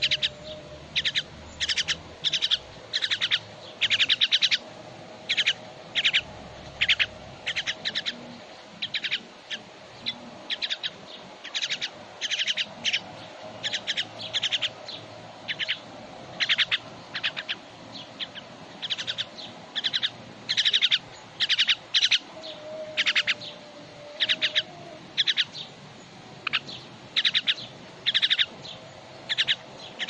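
Bird chirping: short, rapid rattling chirps repeated one or two a second, with a faint steady hum underneath.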